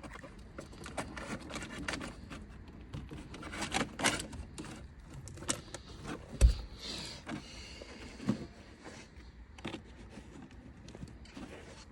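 Cable and plastic dashboard trim being handled while a wire is routed behind a car dash: irregular clicks, rustles and scrapes, with one sharp knock about six and a half seconds in.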